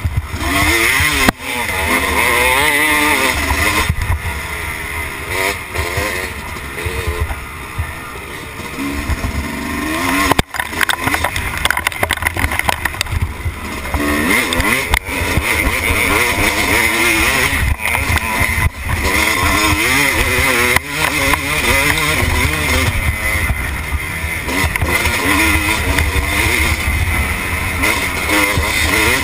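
Dirt bike engine, recorded from its own handlebars, revving up and down repeatedly as the rider accelerates and backs off over a rough trail. Wind rumbles on the microphone throughout.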